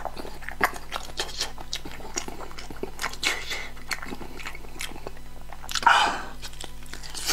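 Close-miked eating: wet chewing and biting with many short, sharp mouth clicks. A louder, longer mouth sound comes about six seconds in.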